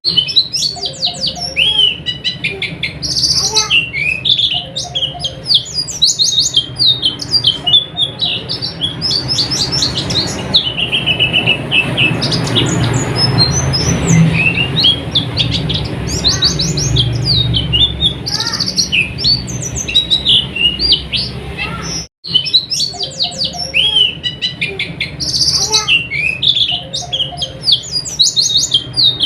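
Pleci (white-eye) song: rapid, high chattering trills of short chirps, one phrase after another with brief pauses, over a low hum. A split-second gap about three-quarters of the way through.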